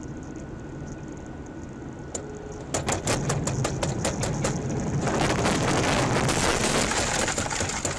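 Car cabin noise on a dashcam: a steady low road hum, then about three seconds in a loud, dense clatter of rapid clicks and rattles, joined near the middle by a loud hiss.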